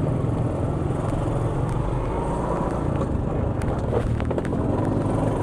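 Vehicle engine running steadily with road noise while travelling, with a few faint clicks about four seconds in.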